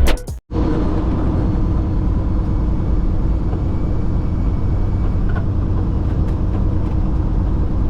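Intro music cuts off right at the start, then a semi truck's diesel engine runs with a steady low drone.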